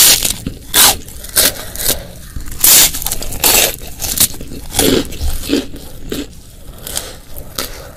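Close-miked chewing and mouth noises from eating, in an irregular run of short crisp bursts that are louder in the first half.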